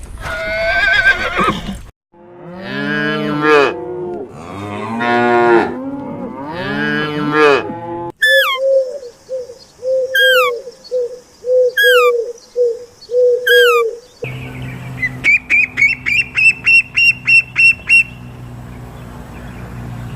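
Cattle mooing, three long calls one after another, followed by a run of short repeated animal calls and then a rapid series of short high chirps.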